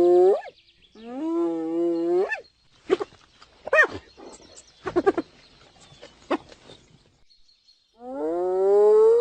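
An animal calling: long, drawn-out pitched calls, each about a second and a half and rising in pitch at the end, one near the start and one near the end, with a few short sharp calls in between.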